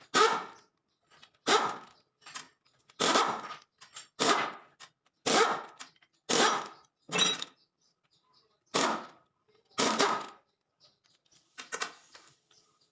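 A dog barking over and over, about ten loud single barks at uneven gaps of roughly a second.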